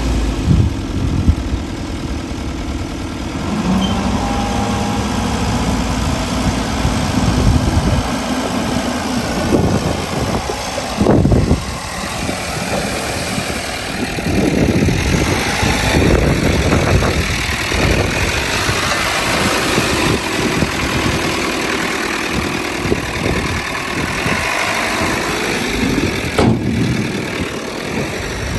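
Diesel engines of heavy earthmoving machinery running, their pitch rising and falling as they work, with a sharp knock about eleven seconds in and another near the end.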